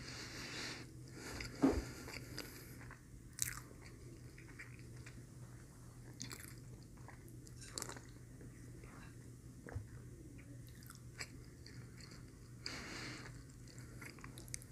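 Close-miked chewing and mouth sounds of someone eating a McDonald's Filet-O-Fish sandwich: soft, faint chewing with scattered small clicks and smacks and a few louder swallow- or sip-like swells, the strongest about two seconds in.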